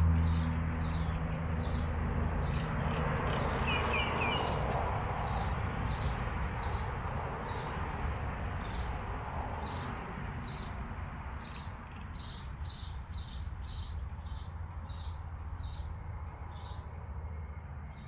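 High-pitched chirping: short chirps repeating about twice a second, over a low steady hum that fades out.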